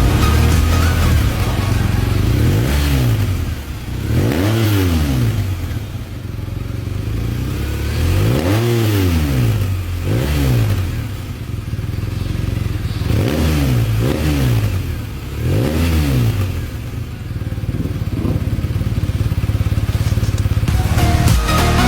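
Motorcycle engine with a Proformance aftermarket exhaust idling and being revved in about seven short throttle blips, some in quick pairs. Each blip rises and falls in pitch.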